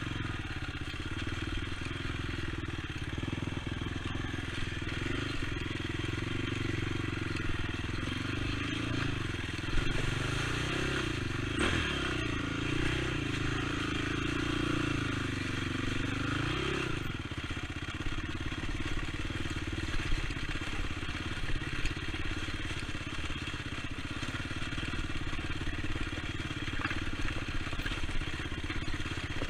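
Honda TRX450 ATV's single-cylinder four-stroke engine running under way. Its pitch rises and falls with the throttle for several seconds about a third of the way in, then it runs steadier, with occasional sharp knocks.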